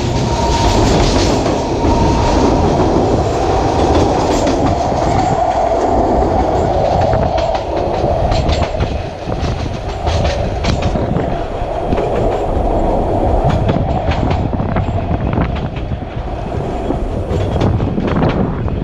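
Narrow-gauge (760 mm) train running uphill, a steady rumble with the wheels clicking over rail joints.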